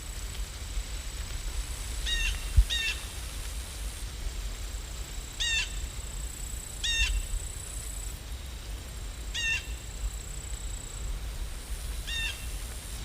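A bird calling six times, short calls a couple of seconds apart, over a steady low rumble.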